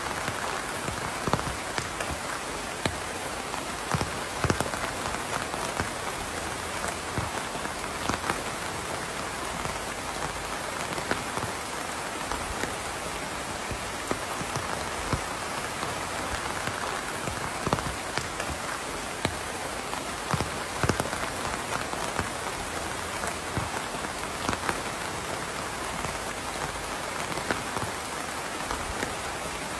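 Steady rain falling on a surface, an even hiss with irregular louder drips and drop impacts scattered through it.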